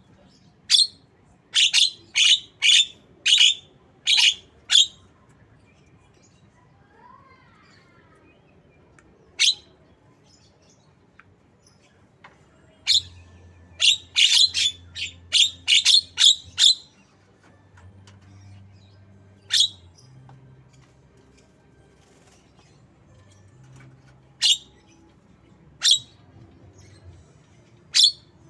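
Javan myna (jalak kebo) giving short, sharp calls: a quick run of about six at the start, a faster burst of about ten about halfway through, and single calls spaced several seconds apart in between.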